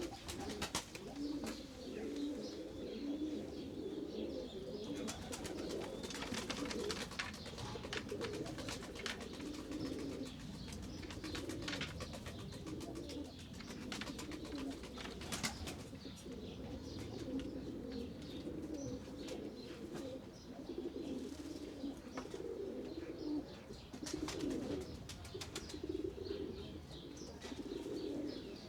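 A flock of pigeons cooing continuously, many low overlapping coos, with frequent sharp clicks and taps scattered through, such as beaks pecking at feed.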